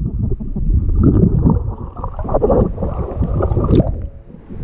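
Muffled water gurgling and sloshing around a GoPro camera in the water, choppy and uneven, with one sharp knock near the end.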